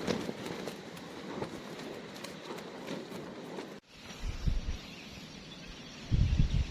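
Strong wind blasting against the microphone in heavy low gusts, loudest in the last second or so. Before that, a steady hiss of wind with faint crackling rustle, broken by an abrupt cut about four seconds in.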